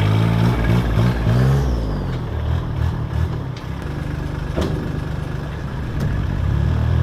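Turbo-diesel engine of a 1967 Chevy C10 pickup, revved up and down a few times in the first two seconds, then running steadier and lower before building again near the end.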